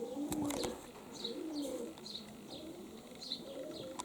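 Domestic pigeons cooing over and over, with short high chirps of small birds among the coos and a few sharp clicks about half a second in.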